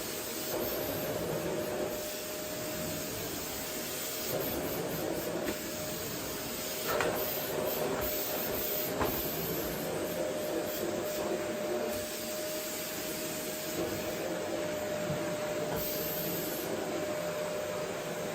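Vacuum cleaner running steadily with a constant whine over its rushing air noise, used on a wooden floor. A few faint light knocks about seven to nine seconds in.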